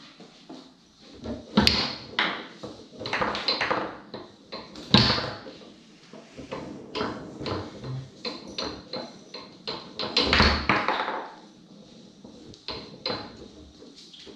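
Foosball being played hard on a Tornado table: a rapid, irregular run of sharp clacks and knocks as the ball is struck by the men and bangs off the walls and rods, with the loudest hits about 2, 5 and 10 seconds in.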